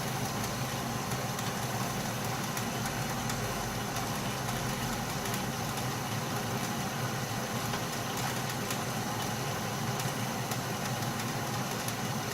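Atlas metal lathe running at a steady speed, its motor and drive giving an even hum.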